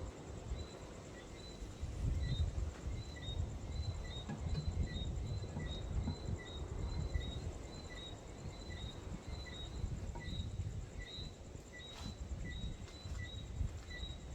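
Wind buffeting the microphone in irregular low gusts, over a steady chorus of short, high, repeated chirps from insects.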